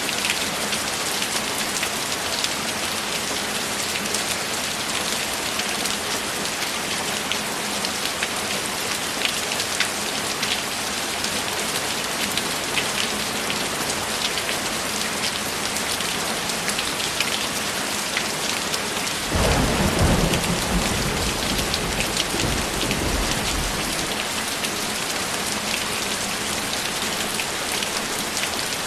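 Steady rain falling, an even hiss with scattered drop taps. About twenty seconds in, a roll of thunder rumbles low for around four seconds and fades.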